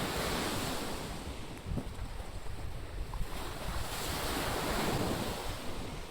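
Ocean waves breaking and washing up the shore, the wash surging twice, with wind buffeting the microphone.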